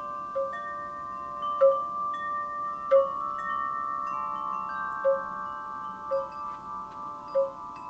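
Wind chimes ringing in a breeze: irregular light strikes every half second to a second set several tuned tones sounding together, each ringing on long after it is struck.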